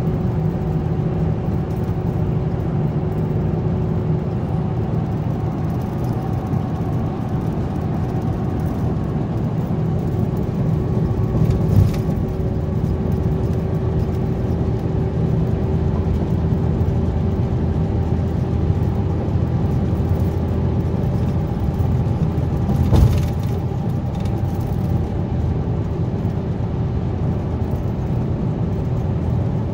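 Diesel engine of a Scania K410B double-decker coach running steadily with a constant low drone and hum. Two brief thumps stand out, one about twelve seconds in and one near twenty-three seconds.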